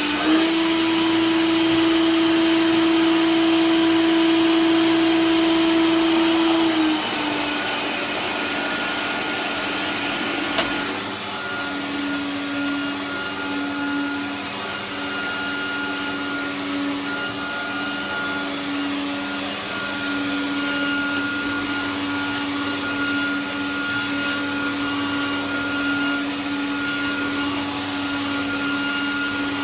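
Hoover Turbopower 1000 vacuum cleaner running, its motor tone stepping up higher and louder for the first seven seconds or so, then dropping back. A sharp click comes about ten seconds in, and then it runs steadily, the pitch wavering a little.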